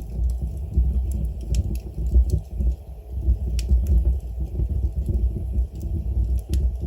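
Wood fire burning in a fireplace: a steady low rumble of the flames with scattered sharp crackles and pops from the burning logs, the clearest about halfway through and near the end.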